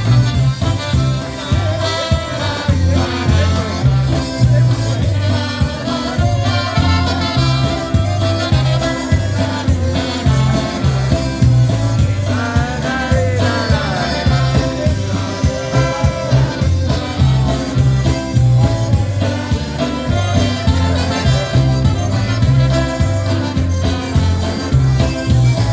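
Live polka band playing a tune, with a steady oom-pah bass beat under the melody instruments and some singing.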